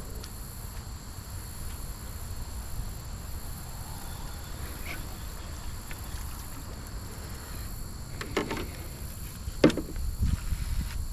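Outdoor river ambience: a steady low rumble with a faint steady high insect-like drone, broken by a few short knocks, the sharpest about nine and a half seconds in.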